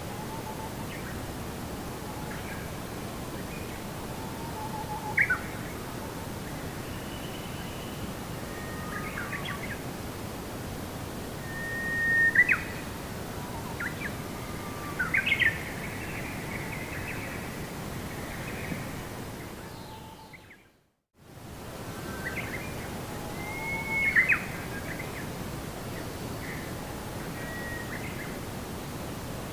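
Birds chirping and calling in short whistled notes over a steady rushing background noise. About two-thirds of the way through the sound fades briefly to silence and fades back in.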